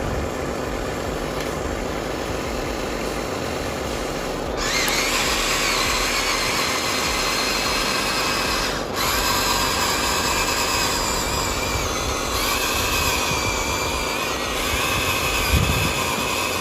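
Small electric motors and gearboxes of a remote-control model whining. The whine starts about a third of the way in, cuts out for a moment near the middle and then runs on, shifting in pitch.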